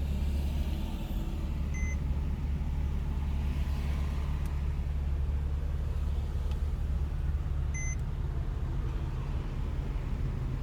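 Porsche 997's flat-six running as the car drives, a steady low drone, with a short electronic warning beep from the car twice, about six seconds apart. The beeping is set off by aftermarket LED lights tripping the car's computer.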